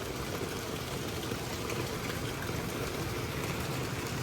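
Steady hiss of rain falling during a thunderstorm.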